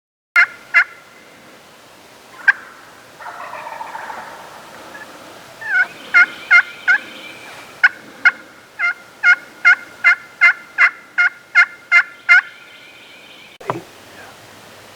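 Turkey yelping: a few single yelps, then a long, evenly spaced run of about a dozen sharp yelps at roughly three a second. Near the end there is one sharp knock.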